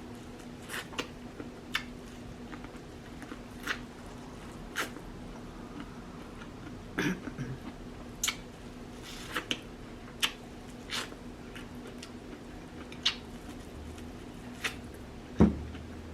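Close-miked eating of a saucy seafood boil: wet chewing, with scattered lip smacks and clicks about once a second, over a faint steady hum.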